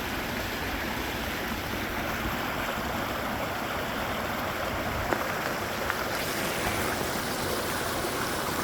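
Floodwater rushing in a steady, even wash of running water.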